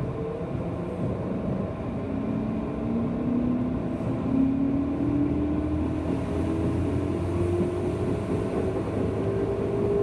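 Running noise inside a JR West 201 series electric train's motor car: the traction motor and gear whine rises slowly and steadily in pitch as the train gathers speed, over a continuous rumble of wheels on rail.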